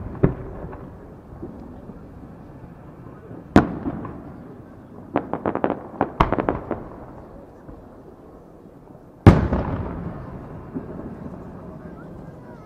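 Aerial firework shells bursting: a sharp bang about three and a half seconds in, a quick run of crackling pops a couple of seconds later, and the loudest bang at about nine seconds, each boom dying away in a long rolling echo.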